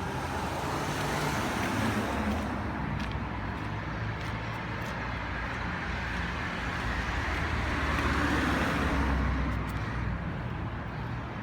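Road traffic: cars passing on a town street, a steady rush of tyres and engines that swells about two seconds in and again around eight seconds in.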